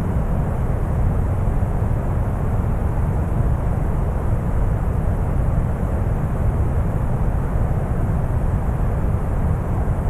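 Steady deep brown noise: a constant, even rumble heaviest in the bass, with no tones or changes.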